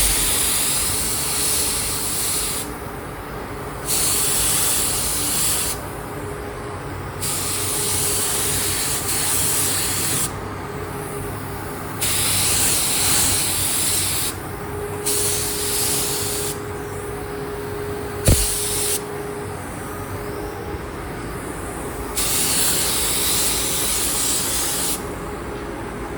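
Blue paint being sprayed onto a motorcycle fairing: a paint sprayer hissing in repeated passes of one to three seconds each, with short gaps between them. One sharp click comes about two-thirds of the way through.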